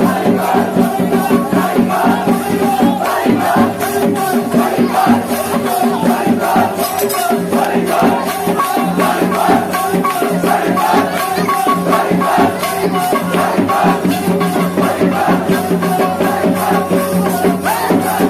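Aarti ritual music: fast, continuous shaken and struck percussion over steady held tones, with no pauses.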